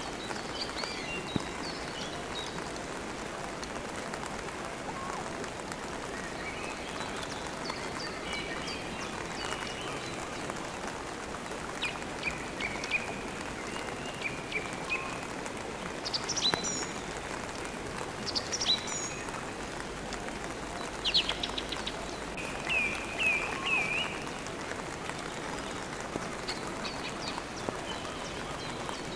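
Steady rain with songbirds chirping and twittering over it; the calls grow louder and busier a little past halfway, in two bursts of quick repeated chirps.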